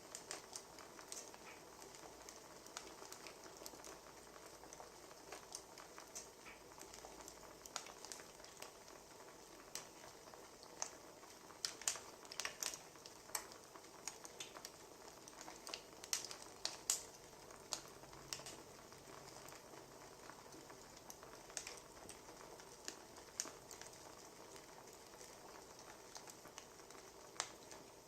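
Wood fire crackling, with irregular sharp pops and snaps over a soft steady hiss; the pops come thickest about halfway through.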